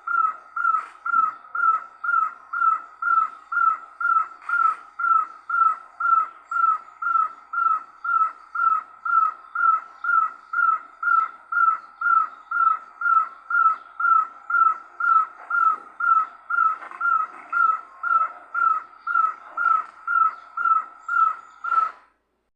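Great barbet (nyauli) calling: one loud note repeated evenly about twice a second for over twenty seconds, stopping shortly before the end.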